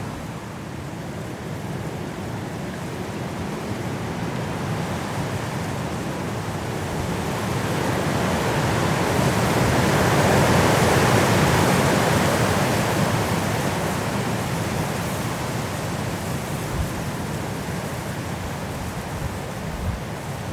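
Strong wind blowing through trees in a snowstorm, one long gust swelling to a peak about halfway through and easing off again.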